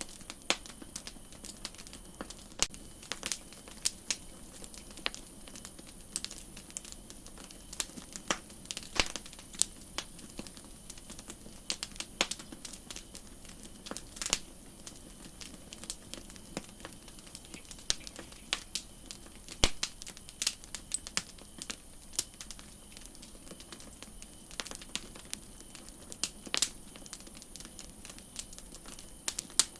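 Campfire crackling: irregular sharp pops and snaps, a few every second, over a steady soft hiss.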